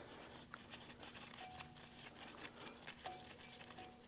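Faint, rapid clicking of a small hand tool, likely a ratchet, backing a fuel-line bleed screw out, with a few brief faint squeaks.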